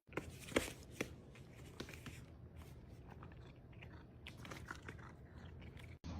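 Faint, intermittent crunching and chewing, with a few sharp crunches in the first two seconds and softer ones after.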